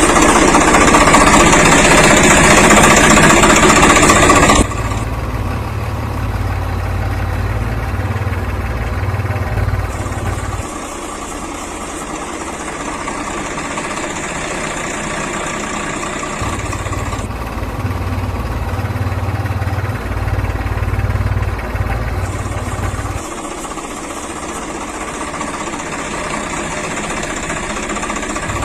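Engine running at idle with a low, steady rumble. Its sound changes abruptly about four and a half seconds in and shifts several more times in even blocks, as if segments were cut together.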